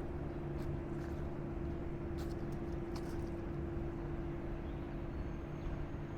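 Steady hum of an idling vehicle engine holding one constant pitch, with a few faint light clicks.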